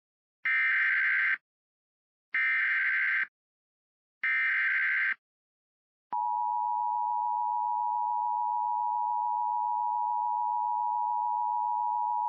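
Emergency alert SAME header: three one-second bursts of buzzy digital data tones about two seconds apart, the coded header announcing a severe thunderstorm warning. About six seconds in, a long steady alert attention tone follows.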